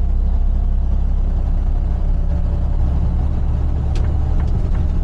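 Vehicle engine and road noise heard from inside the cab while driving, a steady low drone. A single sharp click about four seconds in, followed by a few faint ticks.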